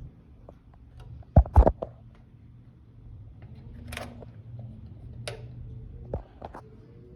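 Sharp clicks and knocks, the loudest a quick cluster about a second and a half in and a few lighter ones later, over the faint low hum of a vintage box fan's motor, which drops in level at the start.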